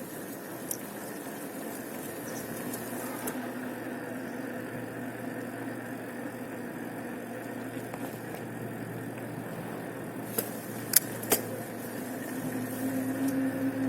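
Steady hum of a motor vehicle on the move, with a pitched engine note that grows louder near the end. Three sharp clicks come in quick succession about ten to eleven seconds in.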